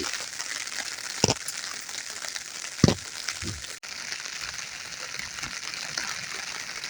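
Steady rain falling, an even fine hiss, with a couple of short soft knocks about a second and three seconds in.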